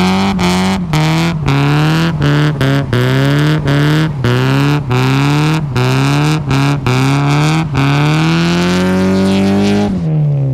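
Car engine revved hard in quick repeated bursts, the revs climbing and cutting out sharply over and over. Then comes one longer climb that drops away near the end.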